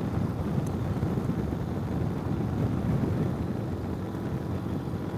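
Ural sidecar motorcycle's flat-twin engine running steadily on the move, with wind buffeting the microphone.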